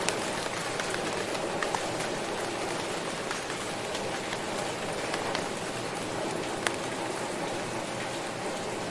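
Steady rain falling, with scattered sharp taps of single drops hitting nearby and one louder tap about two-thirds of the way through.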